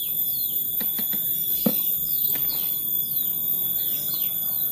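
A bird repeating short falling chirps, roughly two a second, over a steady high drone. A few sharp clicks come from a plastic bottle and cap being handled, the loudest about one and a half seconds in.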